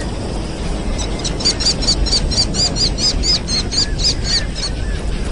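A bird calling a rapid, even series of short high notes, about five a second, starting about a second in and stopping shortly before the end, over a steady low rumble.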